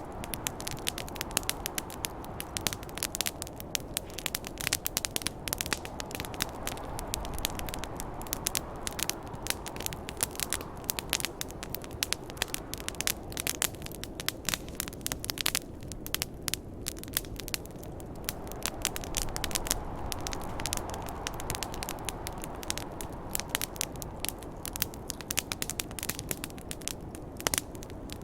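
Campfire crackling and popping in many irregular snaps over a steady rush of snowstorm wind that swells and eases slowly, strongest around a third of the way in and again about two-thirds through.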